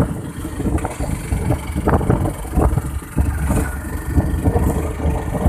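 Motorcycle engine running on the move, a steady low rumble mixed with road and wind noise.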